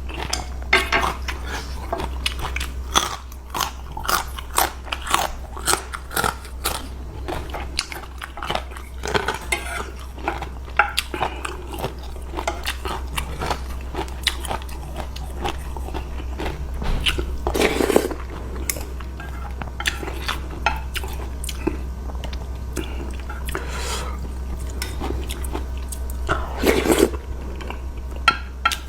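A person chewing and eating curry noodles close to the microphone: many small wet smacks and clicks, with two longer, louder sounds about 18 and 27 seconds in. A steady low hum runs underneath.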